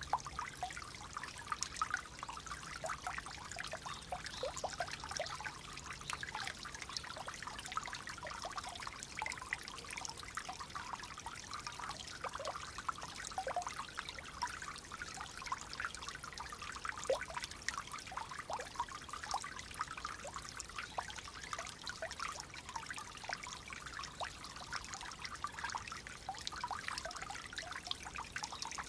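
Clear water flowing and trickling steadily, full of small gurgles and splashes.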